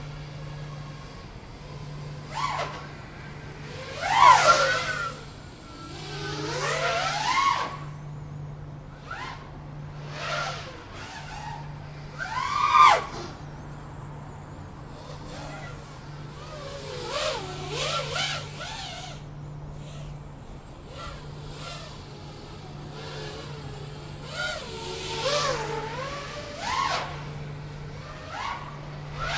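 FPV quadcopter's motors revving up and down in bursts, their whine swooping in pitch as the drone throttles and manoeuvres. The loudest bursts come about four seconds in and again near the middle.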